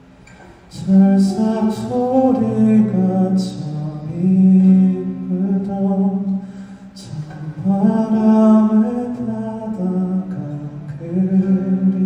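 Male singer performing a slow song live, his voice carrying the melody in long held notes with short breaths between phrases.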